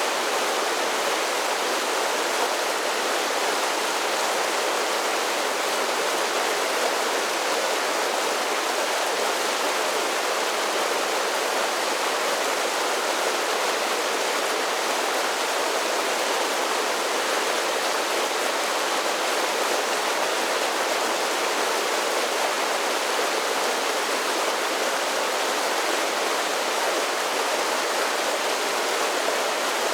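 Mountain creek running over a series of small waterfalls: a steady rushing and splashing of water, unchanging throughout.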